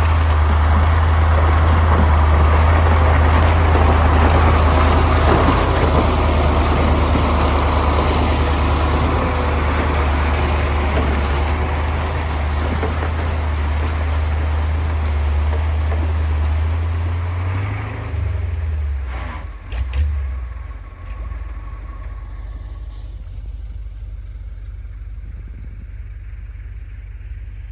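1985 KAMAZ 4310 6x6 truck's V8 diesel engine running loudly and steadily. Its note wavers and falls away about 18 seconds in, with a short sharp sound about two seconds later. A fainter, steady low running sound follows.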